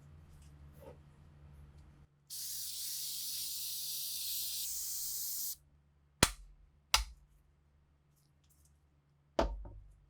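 A pressurised spray hisses steadily for about three seconds, then cuts off abruptly. A few seconds later come sharp knocks: two about a second apart, then one more, doubled, near the end.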